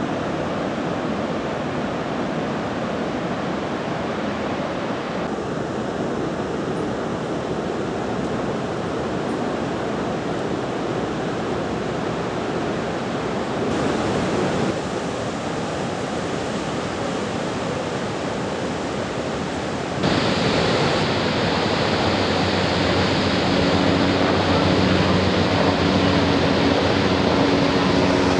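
Roar of the Iguazu Falls: a steady, even rush of falling water, stepping up louder at a cut about twenty seconds in. A low steady hum joins in near the end.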